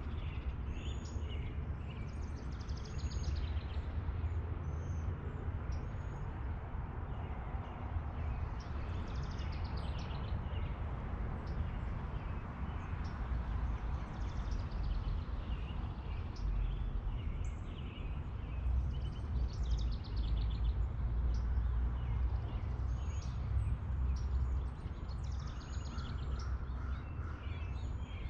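Small birds chirping and calling repeatedly, with short high notes throughout and a brief run of repeated lower notes near the start and again near the end, over a steady low rumble.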